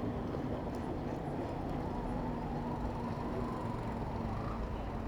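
City street traffic: motor vehicles running close by, heard as a steady rumble with a low engine drone that fades about four seconds in.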